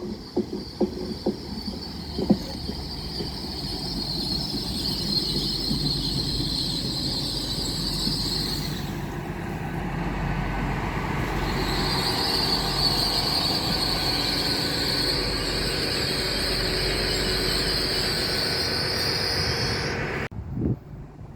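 Train running past on the rail, with a steady rumble and a high steady wheel squeal. A string of clicks from the wheels crossing rail joints comes in the first couple of seconds. The squeal drops out briefly about nine seconds in and then returns, and the whole sound cuts off suddenly near the end.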